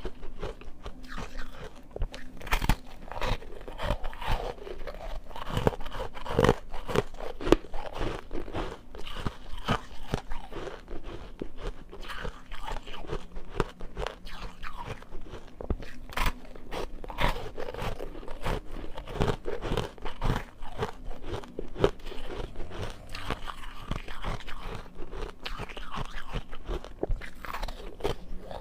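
Ice being bitten and chewed close to the microphone: a steady, irregular run of sharp crunches, several a second.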